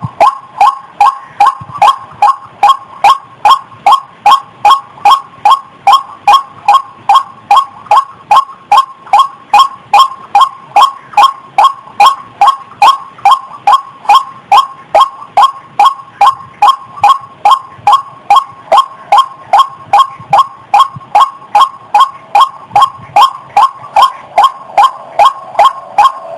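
Female rail (the bird sold as ayam-ayaman / ruak-ruak) calling in breeding condition: a steady, unbroken run of short, sharp notes, about two and a half a second, all on much the same pitch.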